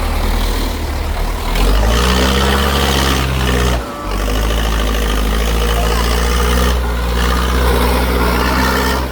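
Tractor engine running under load, revving up about two seconds in and then holding a steady high pitch, with a brief break about four seconds in.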